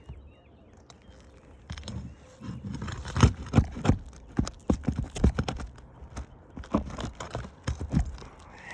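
A roofing nail being worked loose from under a three-tab asphalt shingle with a roof snake tool. After a quiet start comes a string of irregular sharp knocks and scrapes as the tool is worked against the nail.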